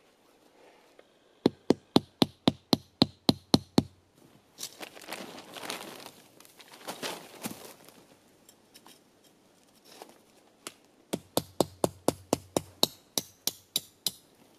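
Two runs of sharp knocks, about four a second, with rustling in between.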